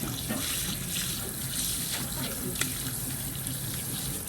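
Steady rush of running water, with a few faint ticks, cutting off abruptly just after the end.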